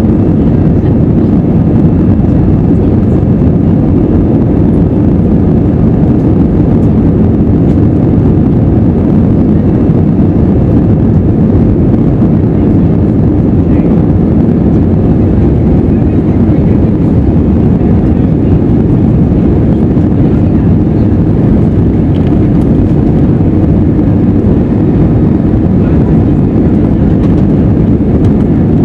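Airbus A320 jet engines at takeoff power: a steady, loud, low rumble that never lets up.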